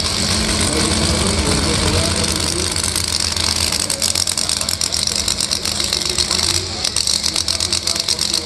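Drag-racing car engine idling, loud and rough, turning into a rapid uneven pulsing from about four seconds in.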